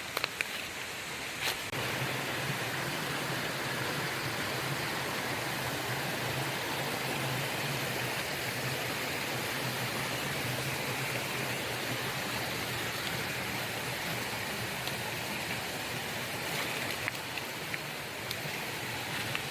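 Rainforest stream flowing with a steady rush of water.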